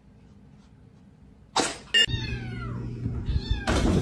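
Cat meowing: after a quiet start, a sudden loud burst and then a drawn-out cry falling in pitch about two seconds in, with more loud sound near the end.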